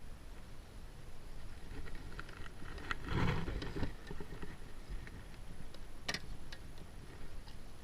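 Wind and water noise on an action camera's microphone aboard a kayak, with a louder noisy burst about three seconds in and a sharp click about six seconds in.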